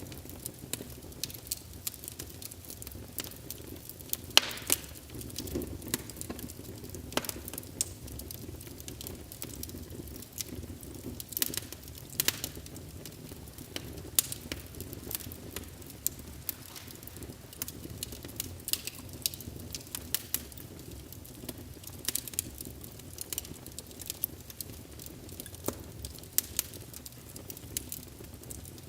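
Wood fire burning in a fireplace: irregular crackles and pops, a few louder snaps, over a low steady rumble of the flames.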